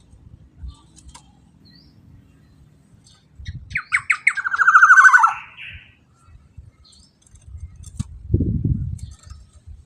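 Black-naped oriole calling about four seconds in: a quick run of short notes, then a harsh, drawn-out note that falls in pitch. A low rumble follows near the end.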